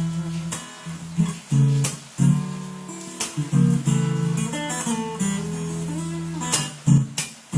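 Instrumental passage of a song: an acoustic guitar strummed in chords, sharp strokes between ringing chords, with no singing.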